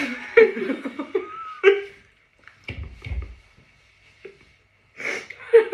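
Short bursts of women's laughter and voice sounds in the first two seconds and again near the end, with a brief low thump about three seconds in.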